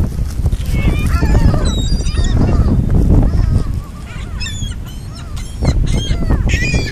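A flock of birds calling over one another as they wait to be fed, many short wavering calls overlapping, with a steady low rumble underneath.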